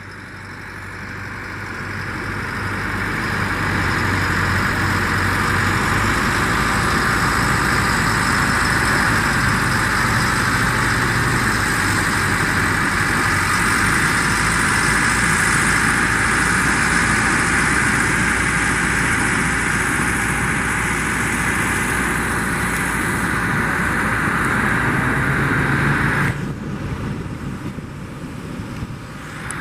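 Tractor engine running steadily close by, building up over the first few seconds and dropping away sharply near the end.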